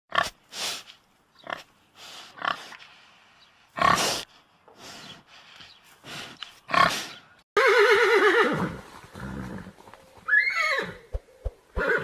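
A piglet grunting in short bursts, about a dozen over the first seven seconds. Then a horse neighs loudly with a quavering whinny about seven and a half seconds in, gives a second rising-and-falling whinny a little after ten seconds, and there are a few sharp knocks just before the end.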